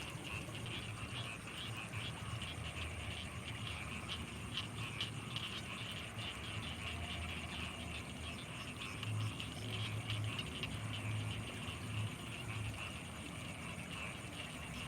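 Night chorus of frogs and insects: a dense, fast trilling over low pulsing croaks, which grow louder for a few seconds past the middle, with a thin steady high tone above.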